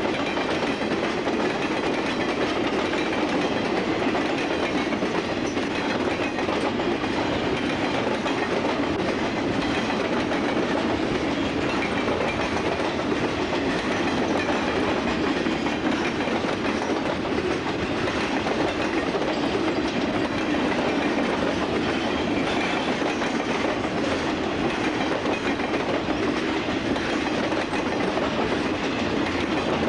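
Freight cars of a CSX train rolling steadily past, the wheels running over the rail joints with a continuous rumble and clickety-clack.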